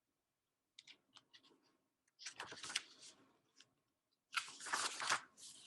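Paper pages of a picture book being handled and turned: a few light clicks, then two short rustles of paper.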